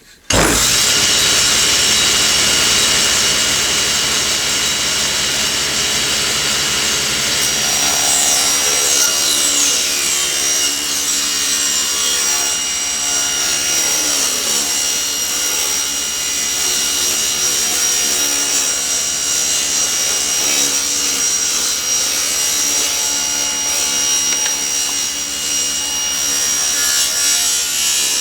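Table saw switched on, its motor coming up to speed almost at once and then running steadily with a high whine as it rips quarter-inch-thick boards into thin strips.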